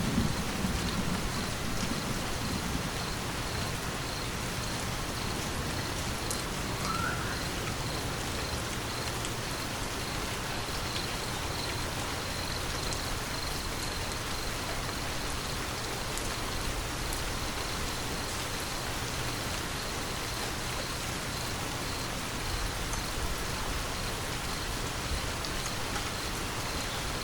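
Steady rain falling, an even hiss of drops, with the tail of a low thunder rumble dying away in the first second.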